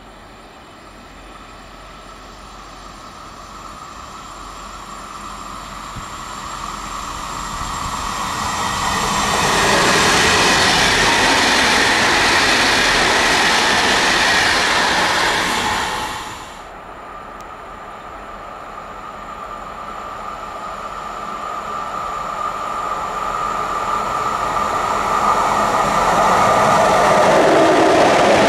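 A passenger train approaches and passes at speed, its noise building for about ten seconds before cutting off sharply about sixteen seconds in. Then a locomotive-hauled container freight train approaches, growing steadily louder to the end.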